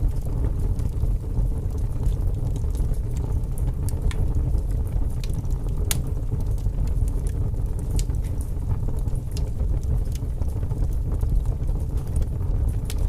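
Wood fire burning in a fireplace: a steady low rumble of the flames with scattered sharp crackles and pops, one louder pop about six seconds in.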